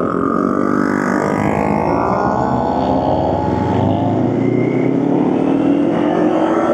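Motorcycle engine running under way, its revs dropping as it slows over the first couple of seconds, then climbing steadily again as it accelerates near the end.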